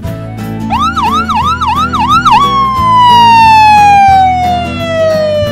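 Cartoon ambulance siren sound effect. It starts with about six quick rising-and-falling yelps, then changes to one long tone sliding steadily down in pitch.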